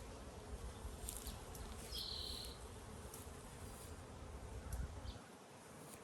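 Honeybees buzzing around an open hive, a faint steady hum, with a short high-pitched tone about two seconds in.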